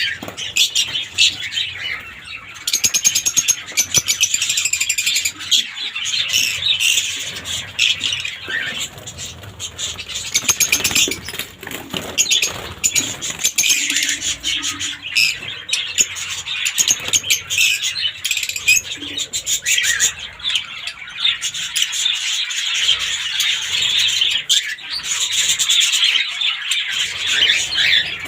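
A colony of lovebirds chattering and screeching together in dense, continuous high-pitched calls, with wings fluttering.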